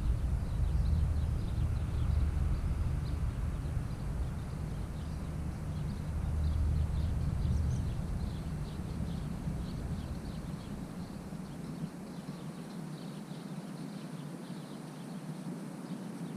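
Ride noise of an 80V Greenworks electric mini bike on hard, icy snow: a low wind rumble on the microphone that fades about eleven seconds in, over a faint, steady patter of small clicks from the tyres on the icy crust.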